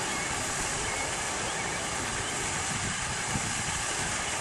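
Steady outdoor rushing noise, with a few faint high chirps.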